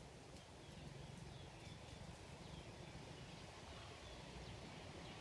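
Faint outdoor ambience: a series of soft, short high chirps, each falling in pitch, over a low rumble.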